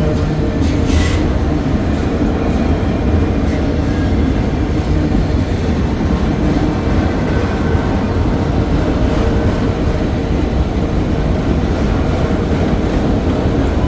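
Freight cars of a slow-moving manifest train rolling past, a steady rumble of wheels on rail.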